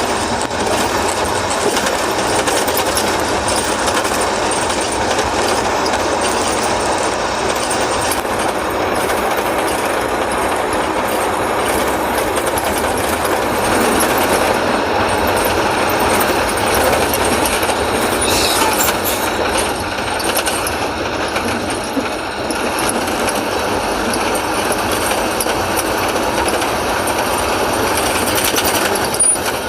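Heavy diesel machinery running with a dense, steady clattering rattle.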